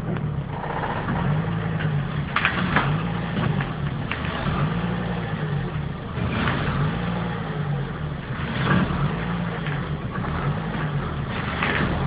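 Volvo 850 AWD's five-cylinder engine running at low revs under light load, its note wavering slightly up and down, as the car is driven in reverse on its rear wheels alone through the viscous coupling. A few short, louder noises come every few seconds.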